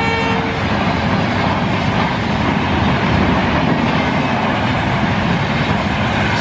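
Diesel-hauled passenger train passing, with a steady loud rumble and rattle of wheels on the track. A horn's held note cuts off about half a second in.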